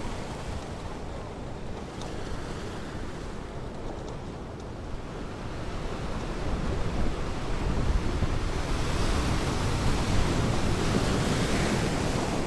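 Ocean surf on a beach: a steady low rumble of waves that builds from about halfway through into a louder, hissing wash of a breaking wave.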